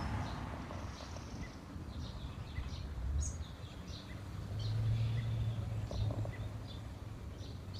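Small songbirds chirping: many short, high chirps scattered throughout, over a steady low rumble that swells about halfway through.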